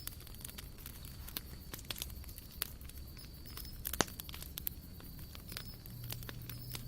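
Wood campfire crackling, with irregular sharp pops and one louder pop about four seconds in.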